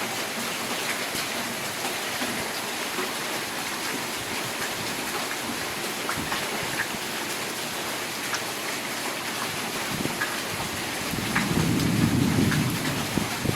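Steady rain falling, with scattered sharp taps of drops. Near the end a low rumble of thunder swells up and grows louder.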